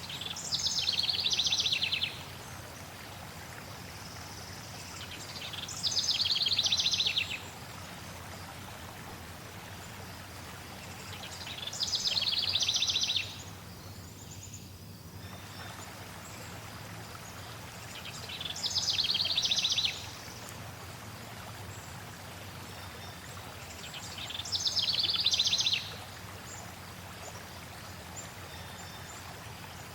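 A songbird sings the same short song five times, about every six seconds: a high note dropping into a fast trill. Under it runs a steady rush of flowing water.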